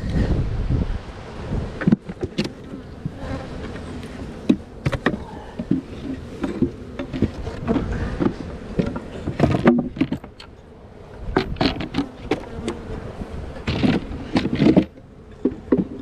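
Honeybees buzzing around an opened hive, with many sharp clicks and knocks from hive equipment being handled.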